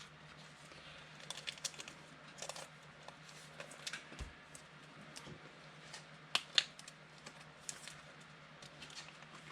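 Trading cards being handled and flipped through by hand: faint scattered light clicks and rustles, the sharpest pair a little past halfway, over a steady low hum.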